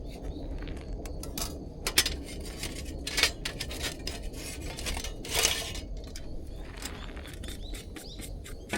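Scattered light clinks and knocks of hard objects being handled, a few sharper ones, with a short scrape about five and a half seconds in, over a steady low background rumble.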